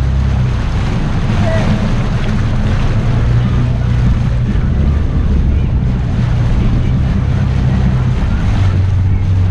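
Jet ski engine running under way, with wind buffeting the microphone and water rushing past the hull; the engine note shifts slightly a few times.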